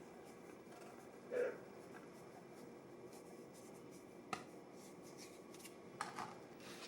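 Faint hand-handling sounds of baking work, light rubbing and scratching, with a short louder sound about a second and a half in and a sharp click about four seconds in.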